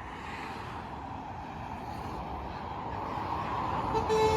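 Steady rush of motorway traffic passing below, slowly growing louder. About four seconds in, a vehicle horn starts to blow in steady tones.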